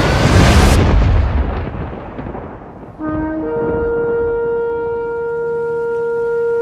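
A loud, deep rumbling boom that dies away over about two seconds, then about three seconds in a horn blast: a short low note followed by a long, steady held note.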